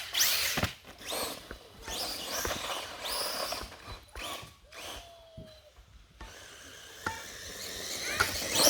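Electric 1/10 Redcat Volcano RC truck on a 4S Spectrum brushless system, driven in short throttle bursts. Its motor whine rises with each burst, along with tyre and chassis noise: about five bursts in the first five seconds, a quieter spell with a click near the end, then another burst.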